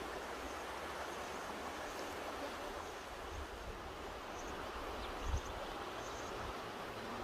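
Mountain river rushing steadily, with a few brief low bumps of wind on the microphone.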